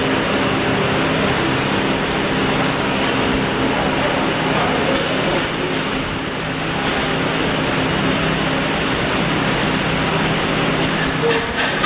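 Electric arc welding: a steady crackling hiss of the arc over the hum of welding machines. Sharp clicks start near the end.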